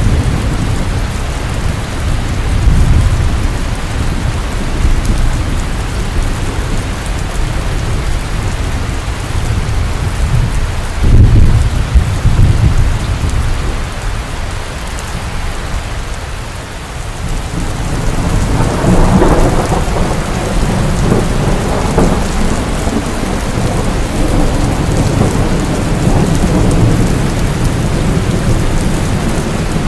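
Steady heavy rain with rolling thunder: a deep rumble peaks about a third of the way in, and another long rumble builds and rolls on past the middle.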